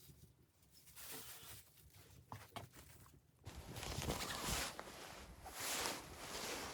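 Footsteps crunching in deep snow, one heavy crunch about every second, starting abruptly about halfway through, after a stretch of faint rustling and a few clicks.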